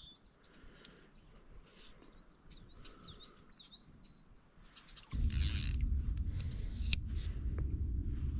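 Outdoor creekside ambience: a few short rising bird chirps about three seconds in over a steady high-pitched whine. About five seconds in, a loud low rumbling noise suddenly takes over, with a brief hiss and a sharp click soon after.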